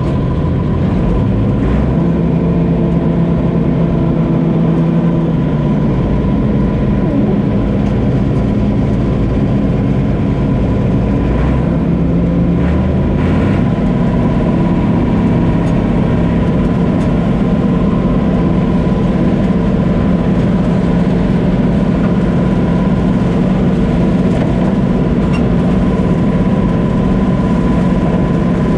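Combine harvester running steadily: a deep engine drone with a thin, steady whine above it. The engine note shifts slightly about six seconds and again about thirteen seconds in.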